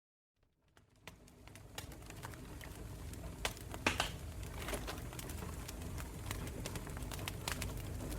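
Wood campfire crackling: irregular sharp pops and snaps from the burning wood over a low rumble of flame, fading in from silence within the first second.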